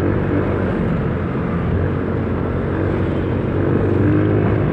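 Motor scooter riding under way: the engine running steadily under a haze of road and wind noise.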